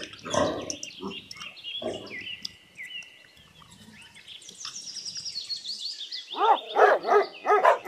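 Pigs grunting in short bursts, then high chirping birdsong in the background, and a quick run of short squealing calls near the end.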